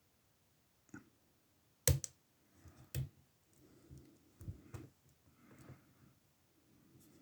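Lock picks and tension tool clicking and tapping in the Ruko oval cylinder of an older ASSA brass padlock during picking: a handful of separate sharp clicks, the loudest about two seconds in and another about a second later, with fainter ticks and soft handling rustle after.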